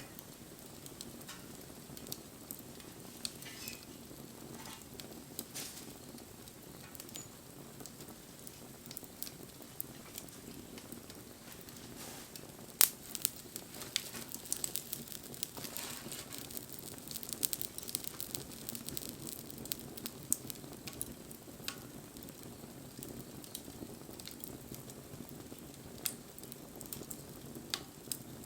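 Wood campfire burning, crackling and popping. The sharp pops come thickest about 12 to 20 seconds in, and the loudest comes about 13 seconds in.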